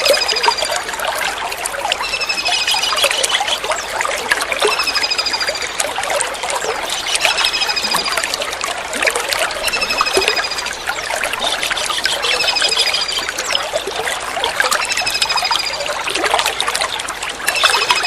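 Kingfisher calls: short, high, slightly falling trills repeated at an even pace about every two and a half seconds, over steadily trickling water.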